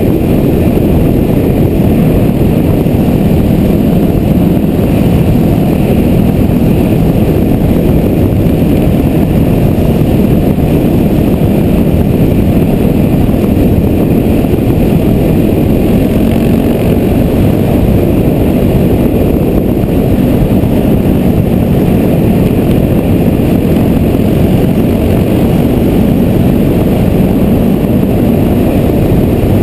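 Yamaha WR450F supermoto's 450 cc single-cylinder four-stroke engine running steadily at road cruising speed, with no big revs or gear changes.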